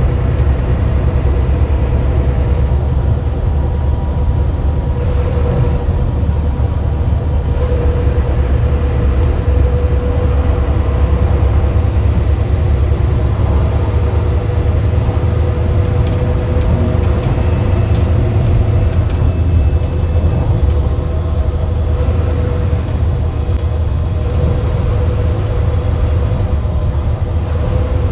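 Mercedes-Benz bus diesel engine running under load, heard from the driver's cabin, with a deep steady rumble and a steady hum. A high turbo whistle rises and fades several times as the engine pulls.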